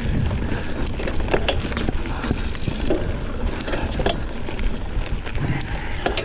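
Giant Fathom 29 mountain bike rolling over a dirt trail: steady tyre and trail rumble with scattered clicks and rattles from the bike.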